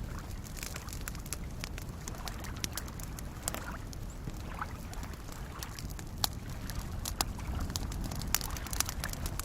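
Campfire crackling, with irregular sharp pops and a few louder snaps in the second half, over soft lake waves lapping and sloshing in a steady low wash.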